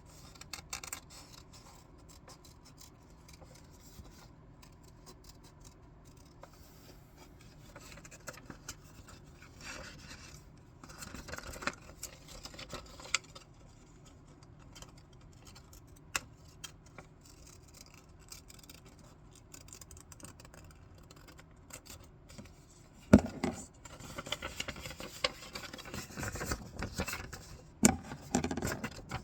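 Scissors cutting paper in scattered short snips, with paper rustling as it is handled. About 23 s in comes a single sharp knock, the loudest sound, followed by busier cutting and rustling.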